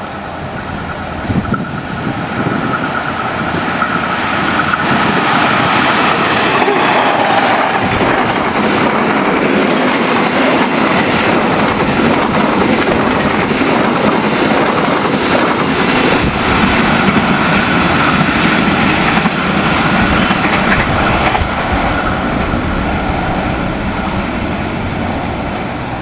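Diesel locomotive hauling a passenger train past at speed. The sound builds as it approaches, then the coaches' wheels clatter over the rails as they run by, easing off near the end as the train recedes.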